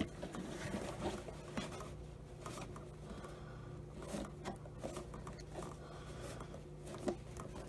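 Scattered light rustles and clicks of a new paper vacuum bag being handled and fitted onto the fill tube inside a Hoover Concept One upright vacuum, with the vacuum switched off; the sharpest click comes at the very start.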